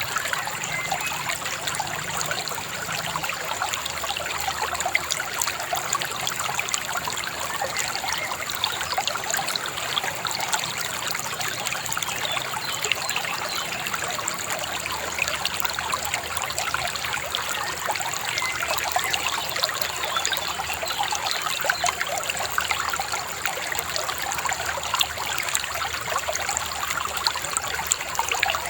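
A shallow river babbling and trickling steadily over stones.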